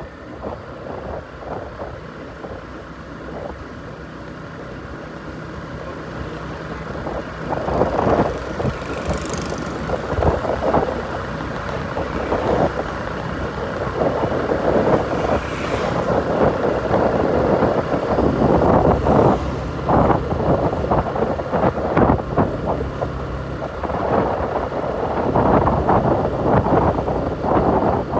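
A large engine running steadily, with irregular knocks and clatter over it from about a quarter of the way in.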